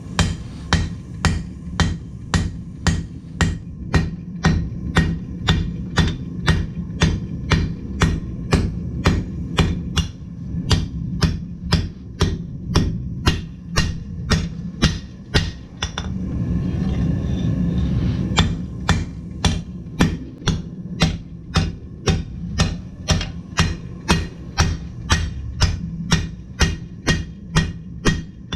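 Blacksmith's hammer striking steel on an anvil in a steady rhythm of about two to three blows a second, stopping for a couple of seconds just past the middle before starting again. A steady low hum runs underneath.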